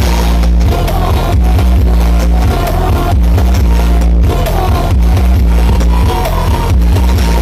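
Loud remixed dance music played through a large carnival sound system, with heavy sustained bass, a steady beat and a melody line.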